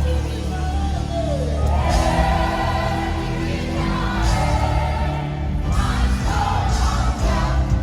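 Live gospel worship music: a choir and congregation singing sustained lines over a band with heavy bass.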